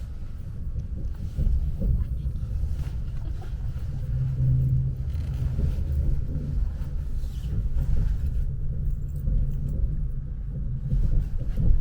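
Low, steady rumble of a Lastochka electric train running along the track, heard from inside the carriage.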